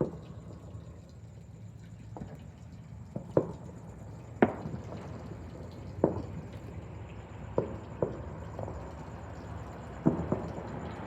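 Distant fireworks and firecrackers going off: about ten scattered sharp bangs at uneven gaps, each with a short echo, the loudest about four seconds in.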